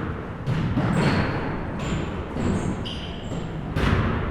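Basketball bouncing on a gym's wooden floor, several sharp thuds that echo in the hall, the loudest near the end, mixed with short high-pitched sneaker squeaks.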